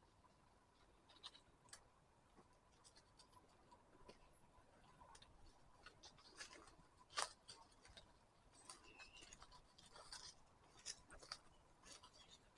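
Footsteps crunching and crackling on a forest path of dry leaves and twigs, in irregular sharp snaps, the loudest about seven seconds in. A faint bird chirp is heard about nine seconds in.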